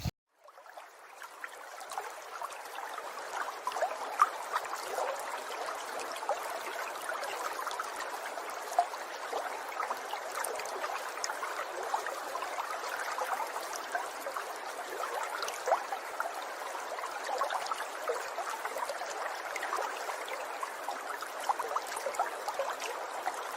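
Steady trickling, babbling water with many small pops and splashes, fading in over the first couple of seconds.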